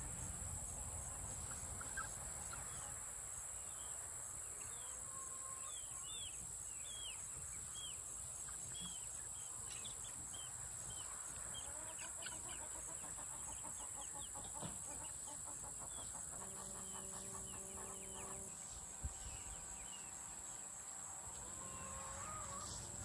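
Chickens clucking and peeping in short hooked chirps, over a steady high insect drone, with a few faint knocks.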